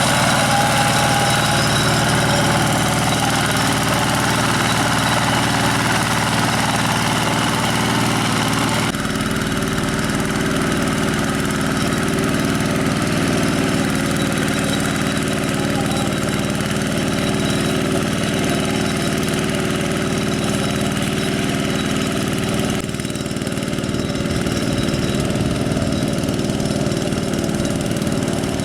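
Single-cylinder diesel engine of a two-wheel hand tractor running steadily, with its note changing abruptly twice, about a third of the way in and again near the end.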